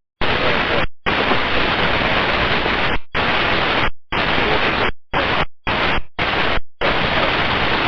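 Loud hiss of static over an air traffic control radio channel, cutting in and out about ten times as transmissions key on and off, with no readable voice: an unreadable or blocked transmission.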